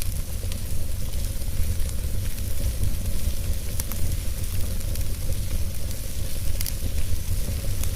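Wood fire burning in a fireplace: a steady low rumble of flames with crackling, and a few sharper pops.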